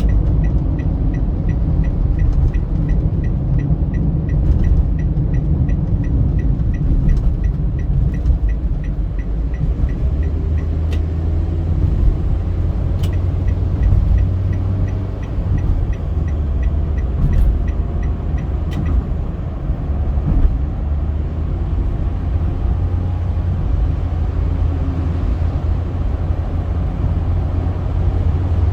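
Steady low road and engine rumble of a car driving on a highway. Over it runs a regular high ticking, about three ticks a second, that stops about ten seconds in and starts again for a few seconds a little later.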